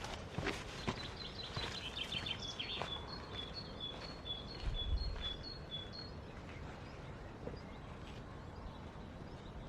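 A songbird singing a quick run of short, high notes on two alternating pitches, stopping after about six seconds, over faint outdoor background with a few light taps and clicks.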